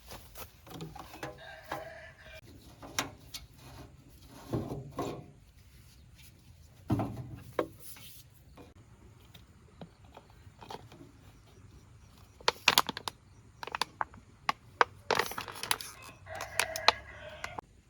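Scattered knocks and sharp clinks, coming thick and fast in the last third.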